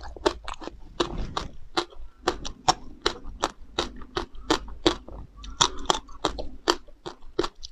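Close-miked chewing of frozen passion fruit: a steady run of sharp, icy crunches, about four a second, with a softer wet chewing stretch just after the first second.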